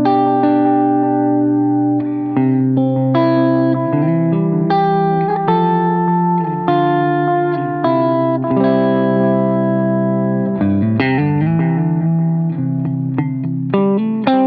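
Electric guitar, a Fender Stratocaster, played through a Line 6 HX Stomp amp modeller and a Boo analog delay pedal. It rings out sustained chords that change every second or two, with a quick run of single notes about eleven seconds in.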